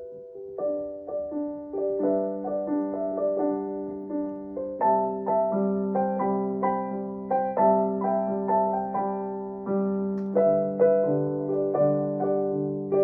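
Piano playing an instrumental passage between sung lines of a song, with notes and chords struck in a steady rhythm. Lower notes join about two seconds in, and the playing grows fuller about five seconds in.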